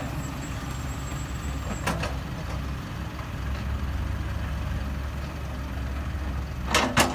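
Heavy diesel engine of earthmoving machinery running steadily. There is a single sharp knock about two seconds in and two more sharp knocks near the end.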